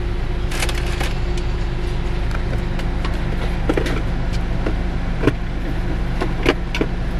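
Car engine idling with a steady low hum, broken by a few short scattered clicks and knocks.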